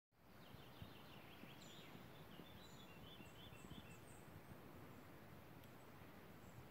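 Faint outdoor ambience: small birds chirping in short high notes, mostly in the first few seconds, over a low steady rumble.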